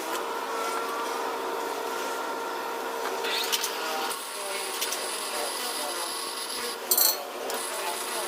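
Workshop machinery running steadily with a constant hum, with a few sharp clicks and knocks over it, loudest just before 7 seconds.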